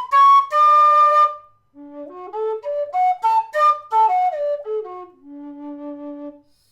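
Howard low D whistle with a brass body playing a scale. It tops out on high notes, breaks off briefly, then runs quickly up from the bottom D and back down, ending on a long-held low D.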